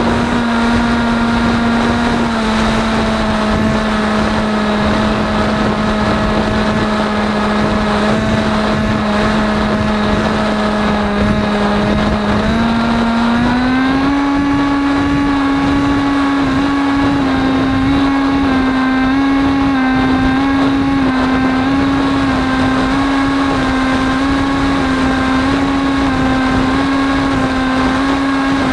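AXN RC plane's electric motor and propeller, heard through the onboard camera: a steady whine that speeds up and rises in pitch about halfway through, then holds with slight wavers. A rush of wind noise sits underneath.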